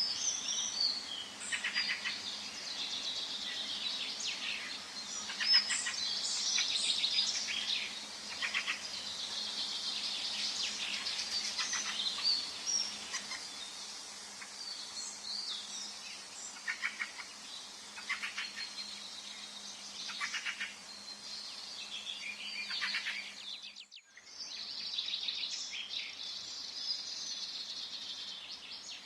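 Forest bird chorus: many birds chirping and trilling over one another, with a faint steady low hum underneath. About 24 seconds in the sound briefly drops out; the hum stops there and the birdsong carries on.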